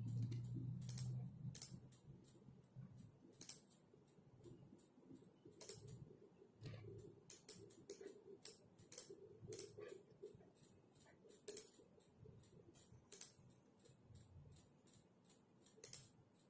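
Computer keyboard typing: light, irregular key clicks, several a second, soft and close. A low, dull rumble in the first second is the loudest sound.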